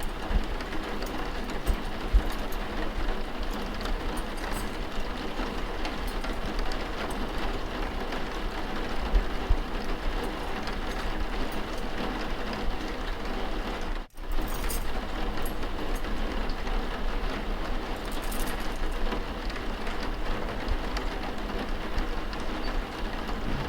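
Mixed rain ambience: steady rain hiss over a low, even rumble, with a few faint clicks and knocks. It cuts out for an instant about two-thirds of the way through, as at the seam of a looped track.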